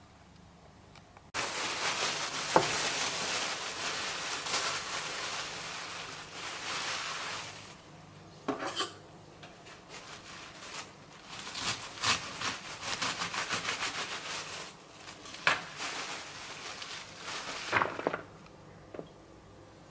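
Kitchen food preparation: a steady hissing rush starts abruptly about a second in and fades out after several seconds, followed by scattered clinks and clatter of dishes and utensils, with a quick run of ticks midway.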